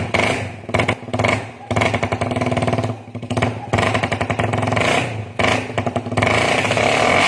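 Suzuki Raider 150 single-cylinder engine through an aftermarket exhaust, being revved in repeated short throttle blips, then held at a steadier, higher rev near the end.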